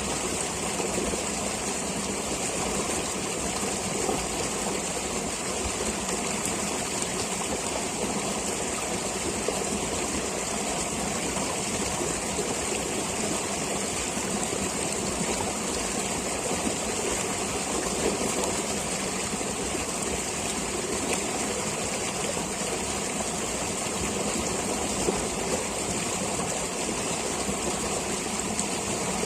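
Stream water flowing steadily, an even rushing sound with a steady high hiss over it.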